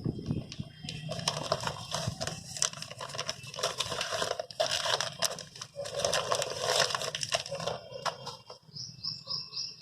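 Crinkling and rustling of a plastic packet with many scattered clicks as granular powder is handled and poured into a bucket of water. A short run of high chirps near the end.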